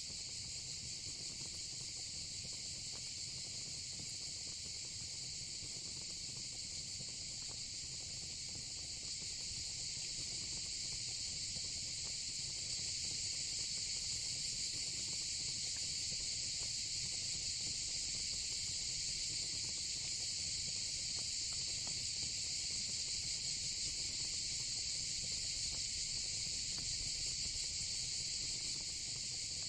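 Steady high-pitched chorus of insects such as crickets, over the low, even rumble of a fire pit with faint scattered crackles. The chorus grows a little louder about ten seconds in.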